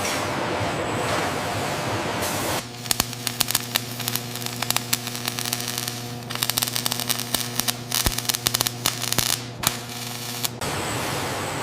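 Factory machinery: a steady hiss, then from about two and a half seconds in a steady machine hum with many rapid, irregular clicks and ticks, which stops at about ten and a half seconds and gives way to the hiss again.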